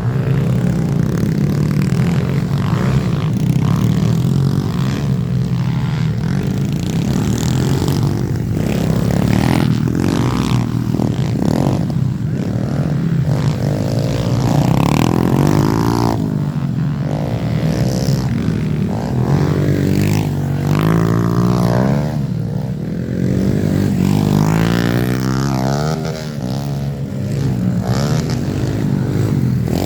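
Small four-stroke single-cylinder pit bike engines riding a dirt track, the pitch climbing under throttle and dropping back again every second or two, over and over.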